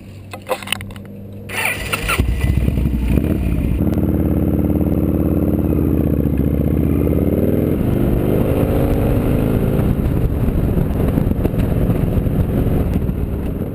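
Victory V92C motorcycle's 92-cubic-inch V-twin being started: a few clicks, a brief burst of cranking, and the engine catches about two seconds in. It then runs loudly, its pitch dipping and rising between about four and eight seconds in.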